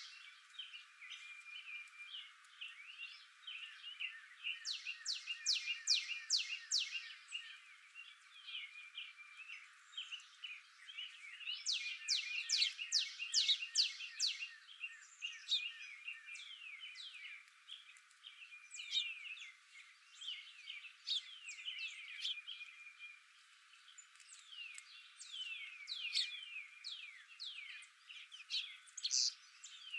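Several wild birds singing, with runs of quick, high notes that fall in pitch, a new run every few seconds, and softer chirps between them.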